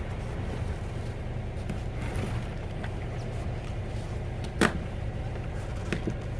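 Excavator's diesel engine running steadily at a low hum, with one sharp metallic knock about four and a half seconds in and a lighter one near the end.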